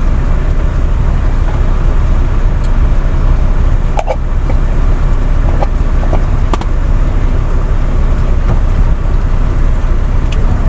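Semi truck's diesel engine idling as a steady low rumble, with a few light clinks of cookware about four seconds in and again a couple of seconds later.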